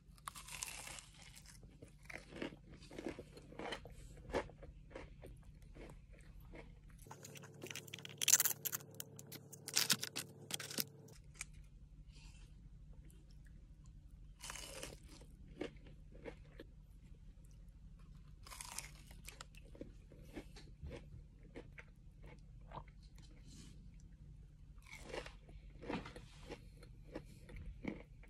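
Crunchy bites and chewing of breaded fried chicken strips: irregular crackling crunches, loudest and densest about eight to eleven seconds in.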